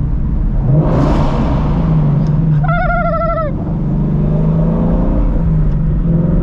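Shelby GT350's flat-plane-crank V8 exhaust running as the car drives, with a rush of noise about a second in. A short high wavering tone, falling at its end, cuts in about three seconds in.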